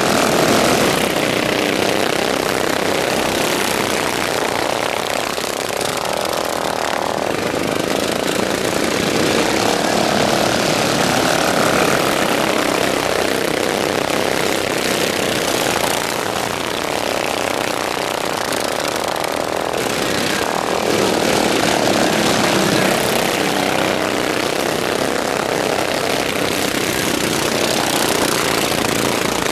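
Racing lawn mowers with stock single-cylinder OHV engines running at high revs, their pitch rising and falling over and over.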